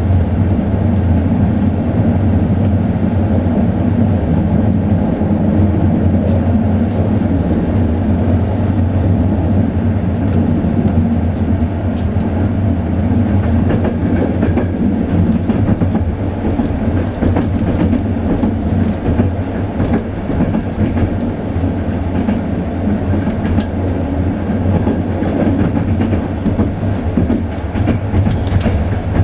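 Passenger train running on the rails, heard from inside the coach: a steady low rumble with occasional faint clicks.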